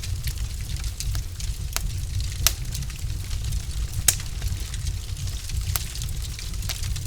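Wood fire in a fireplace crackling, with a low steady rumble of the flames and frequent sharp pops from the burning logs, the loudest about two and a half and four seconds in.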